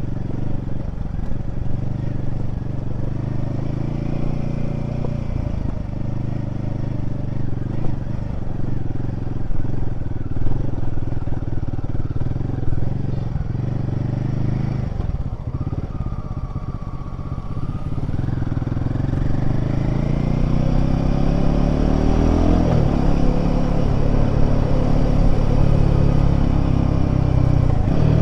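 Royal Enfield Himalayan 450's single-cylinder engine running under way. It eases off about halfway through, then pulls up through the revs and gets louder over the last several seconds.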